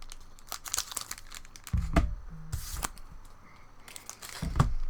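A trading card booster pack wrapper being torn open and crinkled by hand: sharp crackles and rustling, with two dull thumps of handling, about two seconds in and near the end.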